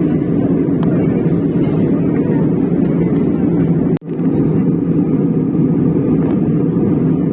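Steady airliner cabin noise in flight: the constant rush of engines and airflow, heavy in the low end. It cuts out abruptly for an instant about four seconds in, then returns.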